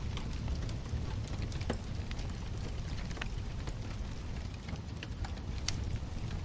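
Wood bonfire burning: a steady low rumble of flames with irregular sharp crackles and pops from the burning wood.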